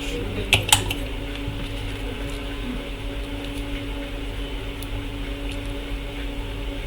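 Steady hum of an electric fan running, with two short clicks about half a second in.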